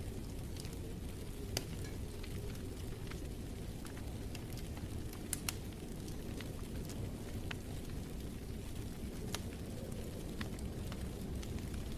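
Wood fire crackling in a fireplace: a steady low rumble with scattered sharp pops every second or two.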